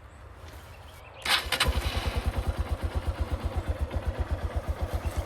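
Honda XR150L's single-cylinder four-stroke engine cold-started: it catches with a sudden burst about a second in, then settles into a fast, even putter at idle.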